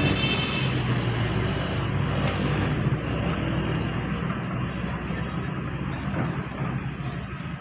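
Heavy diesel machinery engine running steadily, a low even hum.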